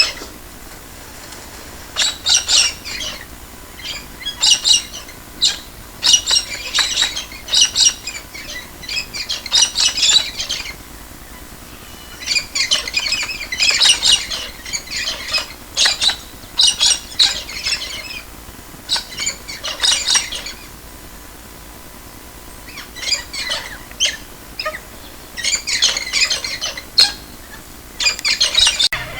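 Cockatoos giving harsh, high screeching squawks in repeated bursts and clusters, with a few short pauses between runs of calls.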